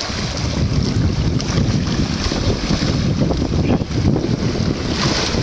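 Rushing, churning water of a strong whirlpool with wind buffeting the microphone in a steady low rumble.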